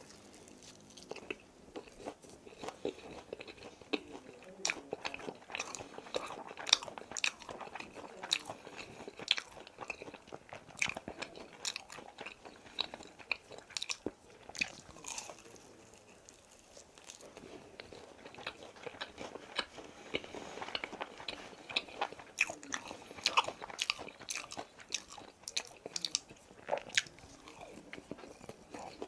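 Close-miked crunching and chewing of crispy boneless fried chicken, with many sharp crunches scattered throughout as pieces are bitten and chewed.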